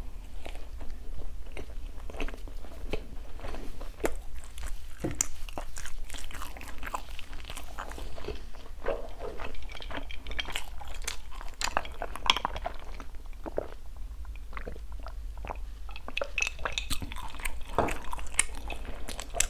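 Close-miked chewing of a bite of bánh bao chỉ, a chewy glutinous-rice ball coated in dried coconut with mung bean filling, heard as many small, irregular mouth clicks.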